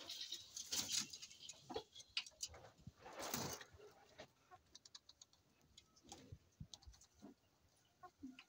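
Poultry moving about in their pen: irregular light pecking taps and clicks on the floor and feeders, with two brief rustles, about one and three and a half seconds in, like feathers or wings shuffling.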